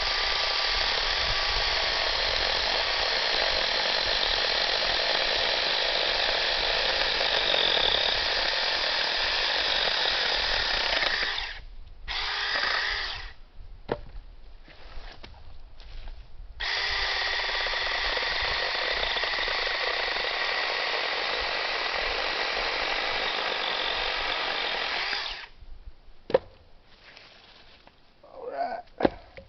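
Battery-powered 6-inch mini chainsaw running and cutting dry deadwood in two long stretches of about eleven and nine seconds, with a short burst between them. A sharp knock follows near the end.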